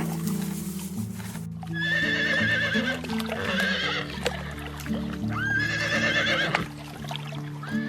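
Horse whinnying twice, each call rising sharply and then wavering, with a third starting near the end, over background music.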